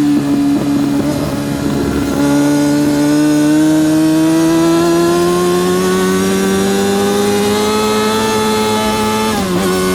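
Yamaha R6 RJ03's 600cc inline-four racing engine at high revs, its pitch climbing steadily for several seconds as it pulls hard through a gear. Near the end the pitch drops sharply with an upshift and the engine keeps pulling.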